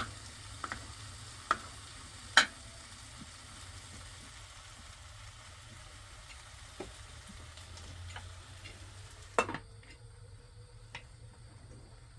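Food sizzling in a frying pan, with a few sharp knocks of a utensil against the pan as it is stirred. The sizzle thins after a loud knock near the end.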